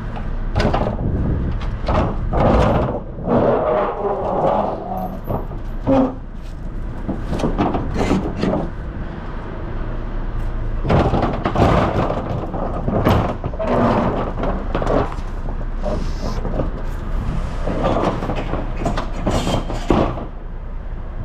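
Rear doors of a semi-trailer being opened by hand: repeated metallic clanks and knocks of the door locking bars and latches, over a steady low hum.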